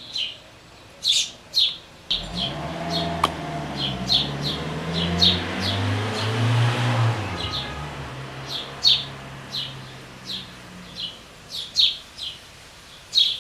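Nestling birds chirping over and over in short, sharp, high calls, two or three a second: begging to be fed. About two seconds in, a low drone swells up under the chirps and fades out again around the nine-second mark.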